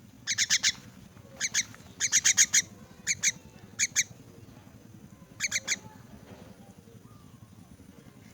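Myna squawking in quick runs of short, harsh notes, two to six at a time, begging to be fed; the calls stop a little over halfway through.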